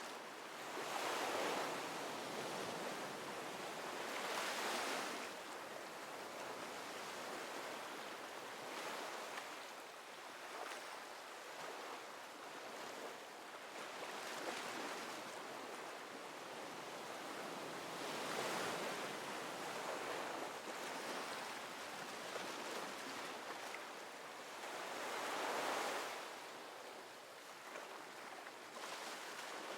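Ocean waves breaking and washing on a shore, a steady wash of surf that swells several times, loudest about a second in, around four seconds, and near 18 and 26 seconds.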